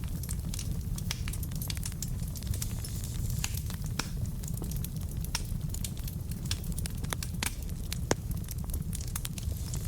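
Wood fire burning in a fireplace: a steady low rumble of flames with frequent irregular crackles and pops from the burning logs, one sharper pop about eight seconds in.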